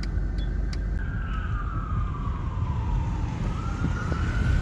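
Fire truck siren wailing in one slow sweep, falling in pitch for about two seconds and then rising again, over the steady low rumble of vehicle engines.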